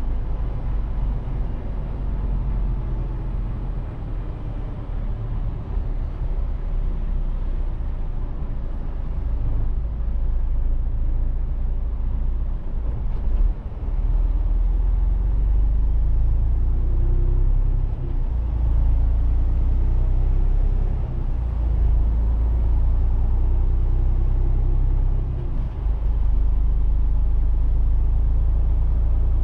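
Mercedes-Benz Actros truck under way: a steady deep engine drone with road rumble, getting louder about halfway through and staying up, with a short dip near the end.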